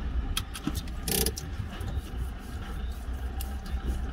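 Car engine idling, a steady low rumble heard from inside the cabin, with a few light clicks and a short rustle about a second in.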